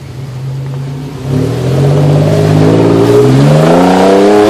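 SUV engine running steadily, then revving up about a second in, its pitch climbing steadily for about three seconds as it pulls up a muddy hill.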